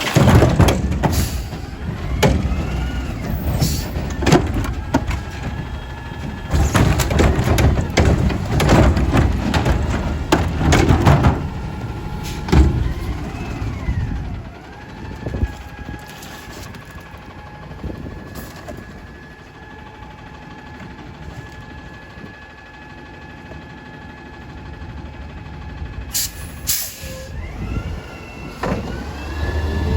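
Garbage truck's diesel engine revving hard with clattering bangs for the first twelve seconds, the sound of trash being dumped from a cart into the hopper. It then settles to a steady hum with a gliding whine. Near the end comes a sharp hiss of the air brakes, and the engine rises in pitch as the truck moves off.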